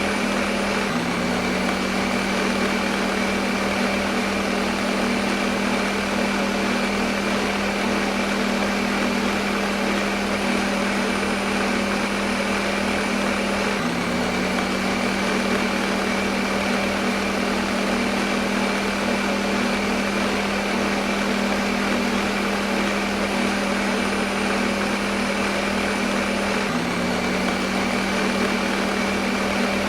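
Kitchen blender motor running steadily at full speed: a constant whirring hiss over a steady hum. The hum jumps slightly about every thirteen seconds, where the recording loops.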